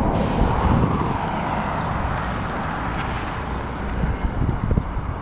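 Honda Shadow Spirit 1100 V-twin motorcycle riding along at a steady pace: engine running under a constant rush of wind and road noise.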